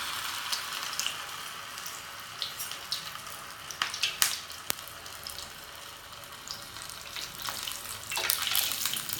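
Noodle cutlets frying in hot oil: a steady sizzle with scattered sharp crackles and pops, swelling near the end.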